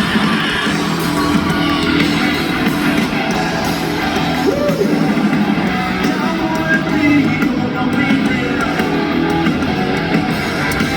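Live rock band playing loud distorted electric guitars with bass and drums, heard through a crowd recording of the concert.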